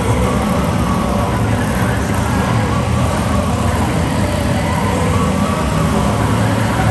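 A heavy vehicle engine runs loudly at a fairly steady pitch in the arena, with a deep low hum throughout.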